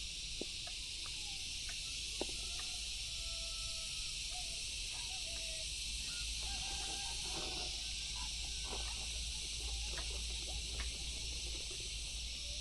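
Outdoor nature ambience: a steady high insect drone, with many short whistled bird calls and a few faint clicks scattered over it.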